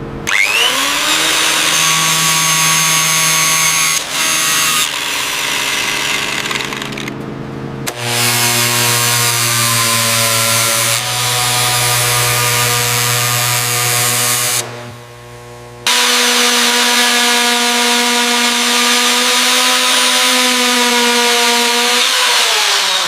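A motor running with a steady whine. It spins up at the start, dips briefly about two-thirds in and winds down near the end.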